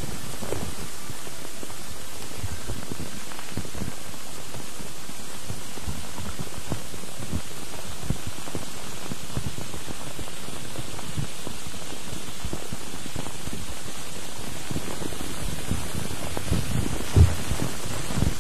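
Steady white noise, a rain-like hiss spread evenly over all pitches. Scattered soft low knocks run through it, with one louder thump about 17 seconds in.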